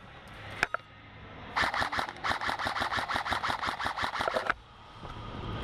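Airsoft electric gun, a KWA Commando AEG, firing a rapid burst of about eight shots a second for about three seconds, after a single click.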